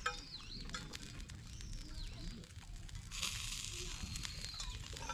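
Small forest birds chirping in short whistled glides, with a patch of steady hiss from about three seconds in.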